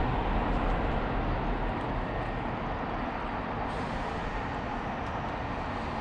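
Steady low rumble of distant traffic, easing a little over the first two seconds.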